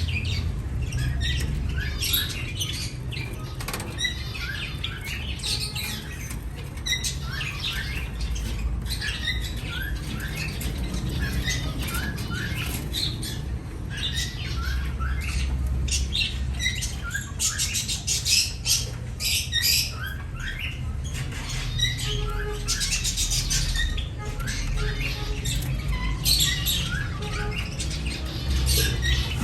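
Many small birds chirping in quick, overlapping calls, with occasional brief fluttering rustles of wings, over a steady low rumble.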